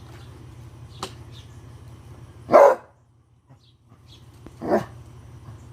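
An animal calling twice: one loud short call about two and a half seconds in, and a softer one about two seconds later.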